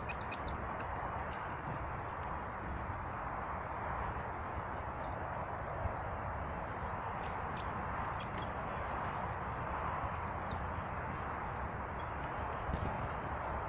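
Small birds chirping in many short, separate calls over a steady rushing of river water.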